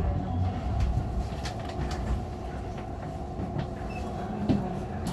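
Subway train running at speed, heard from inside the car: a steady low rumble with a scattered few clicks of the wheels over the rail joints.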